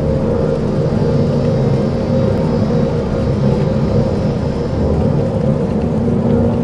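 Dark ambient soundscape: a steady, dense low rumbling drone with sustained held tones over it, unchanging throughout.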